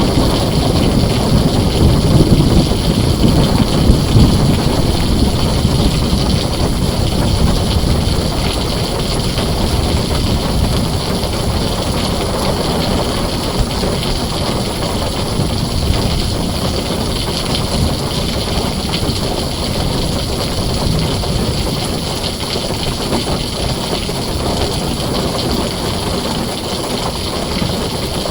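Heavy rain falling steadily on a tin roof, with a deep rumble of thunder over the first several seconds that gradually fades.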